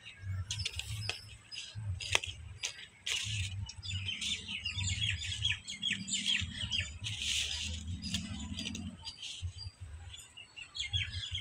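Small birds chirping and twittering in short calls and quick runs, with a few light taps and rustles of paper plates being handled.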